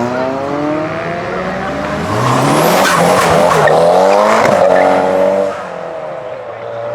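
A modified car's engine revving hard as it pulls away, its pitch rising and falling several times. It is loudest from about two to five and a half seconds in, then drops back.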